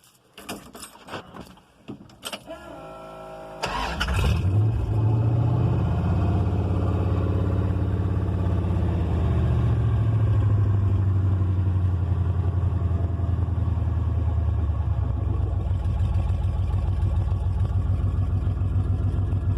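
Keys jingling and clicking, then the Hemi V8 in a 1972 Dodge truck cranks briefly and fires about three and a half seconds in, settling into a loud idle through an open stub of pipe with no exhaust system fitted. The idle note changes about fifteen seconds in as it settles.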